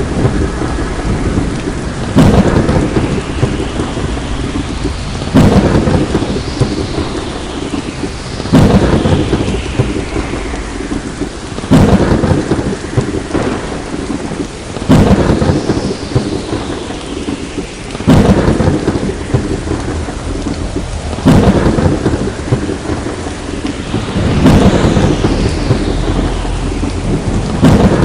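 Thunderstorm: steady rain with a sudden clap of thunder about every three seconds, each fading into the rain before the next.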